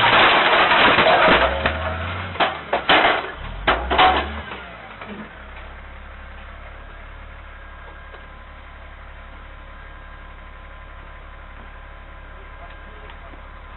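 A loud rushing noise, then several sharp bangs and knocks between about two and four seconds in, settling into a steady low hum.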